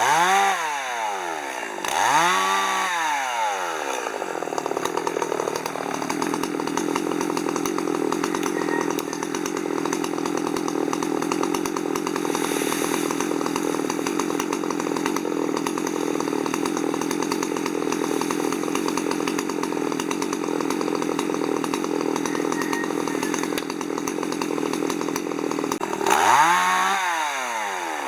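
Chainsaw revved up and down a couple of times, then running steadily under load while cutting wood for about twenty seconds. It revs again near the end.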